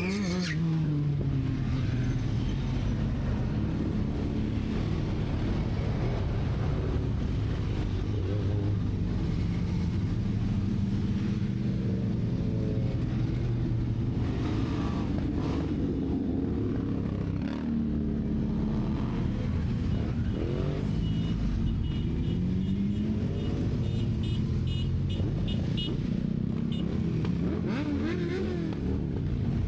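A Benelli TRK 502X's parallel-twin engine running on the move, its pitch rising and falling repeatedly as the bike speeds up and slows.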